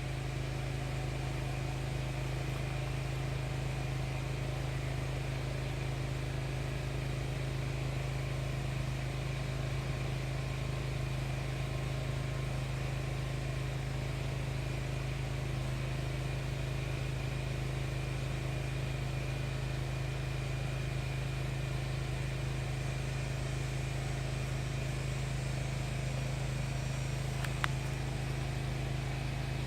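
Steady low mechanical hum that holds the same pitch and level throughout, with a single faint click near the end.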